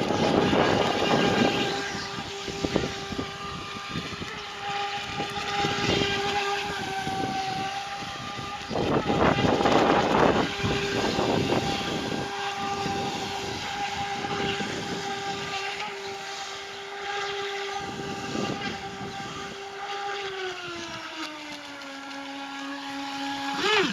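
High-pitched whine of a homemade RC jet boat's 3900kv brushless electric motor and jet drive running steadily, dropping to a lower pitch near the end. Loud rushing surges come at the start and about ten seconds in.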